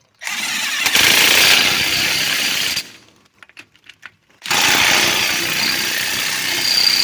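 1/2-inch impact wrench tightening wheel lug nuts: two long bursts of rapid hammering, each about two and a half seconds, with a short pause between.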